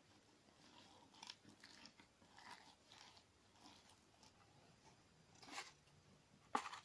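Clear slime with crunchy sand mixed in being squeezed and worked by hand, giving soft, irregular crunchy crackles, with one sharper, louder click near the end.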